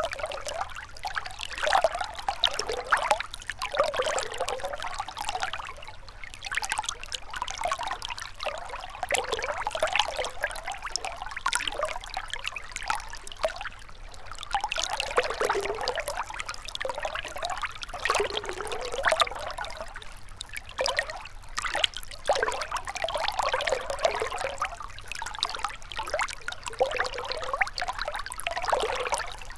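Shallow river water trickling and babbling over stones in a steady, gentle flow of small gurgles.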